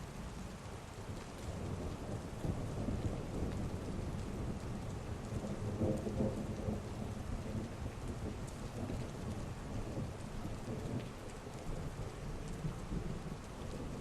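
Heavy rain pouring steadily, with a long low roll of thunder that builds from about two seconds in and peaks around the middle.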